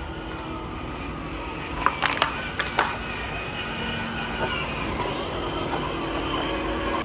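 Scale RC crawler truck's electric motor and drivetrain whining steadily as it drives, with a quick run of sharp knocks about two seconds in, as of the truck bumping over rough ground.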